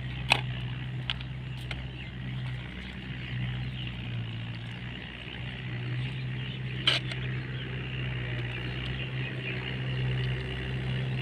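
Mahindra tractor's diesel engine running at a steady speed, with two sharp knocks: one just after the start and one about seven seconds in.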